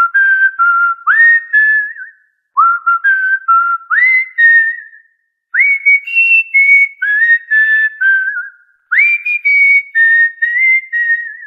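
A cockatiel whistling a tune: four short phrases of clear notes, each note swooping up into a held pitch, with brief pauses between the phrases. The last two phrases are pitched a little higher.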